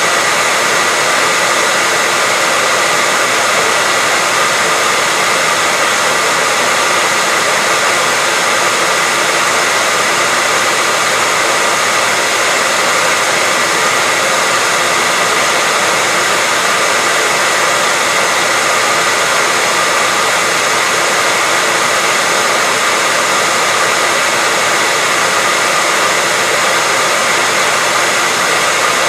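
Hair dryer running steadily, a constant rush of blown air with a thin steady whine through it, unchanging throughout.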